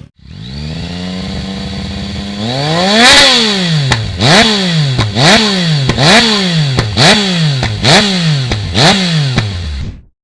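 Yamaha XSR 900's 890 cc three-cylinder engine idling through a full exhaust, then revved hard once about three seconds in, followed by about six quick throttle blips roughly a second apart. The sound cuts off abruptly near the end.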